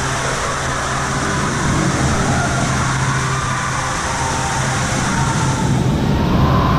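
Steady water-park background noise: an even rushing wash with a low steady hum underneath. The hiss in the upper range fades near the end.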